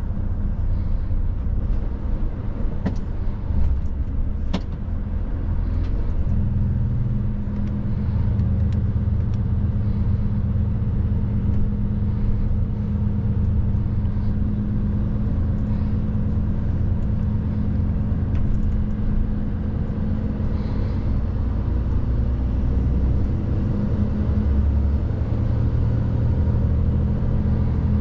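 Mercedes truck's diesel engine and road noise heard from inside the cab while driving, a steady low drone. About six seconds in, the engine note steps up and strengthens. Two faint clicks come in the first five seconds.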